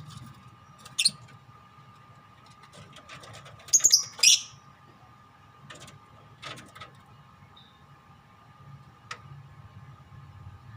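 Pet lovebirds giving short, shrill screeching calls: one about a second in, a loud pair about four seconds in, then a few fainter ones, over a faint steady hum.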